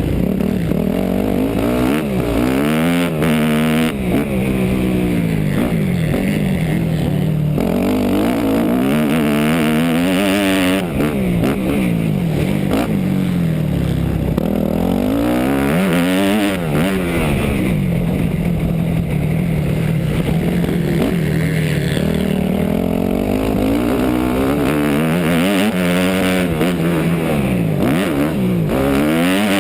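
250 cc four-stroke motocross bike's engine, heard from onboard the bike, revving up and falling back again and again as the rider accelerates, shifts and backs off around the track.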